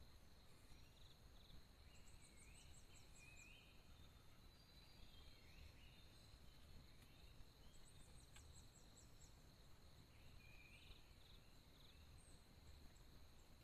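Faint forest ambience: a steady high insect trill, with two bouts of short rapid chirping calls, a couple of seconds in and again about eight seconds in.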